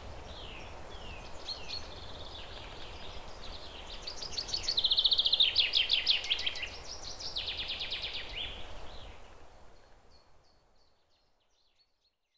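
Birds chirping and trilling over a faint steady background noise, with bursts of rapid trills in the middle; it all fades out over the last few seconds.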